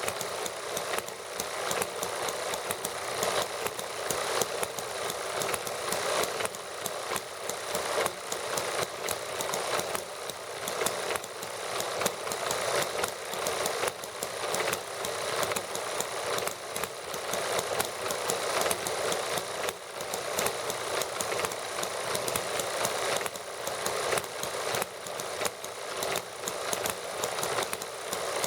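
Small model gasoline engines running steadily, a rapid, even run of firing pops.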